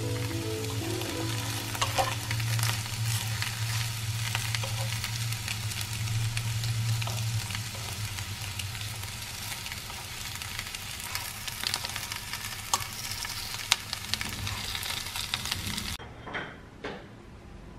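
Reheated fried chicken, fries and nuggets sizzling and crackling in a nonstick frying pan, with a few sharp clicks of metal tongs turning the food. The sizzling cuts off abruptly near the end, and a couple of faint knocks follow.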